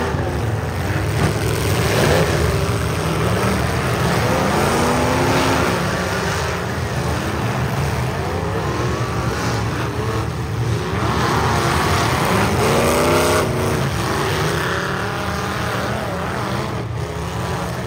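Engines of full-size demolition derby cars running hard together, revving up and down in repeated sweeps over a steady low engine drone.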